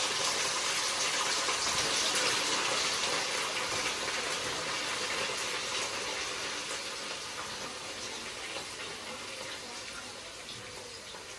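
Bitter gourds (karela) frying in very hot oil: a steady sizzle, strongest at the start and gradually dying down.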